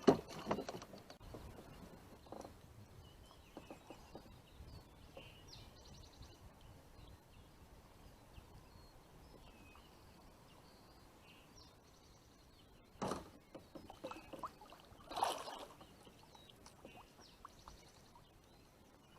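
Quiet outdoor ambience with faint, scattered bird chirps, broken by a few knocks, loudest about 13 and 15 seconds in.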